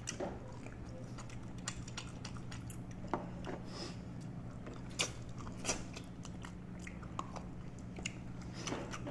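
Close-up eating sounds: two people chewing and biting food eaten by hand, with a few short sharp crunches or clicks. A steady low hum runs underneath.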